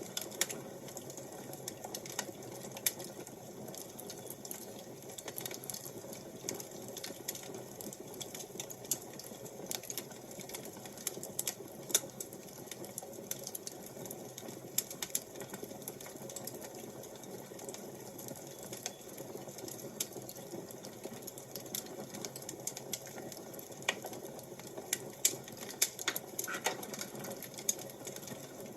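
Wood fire crackling: a steady low rustle of flames with irregular sharp pops and snaps throughout.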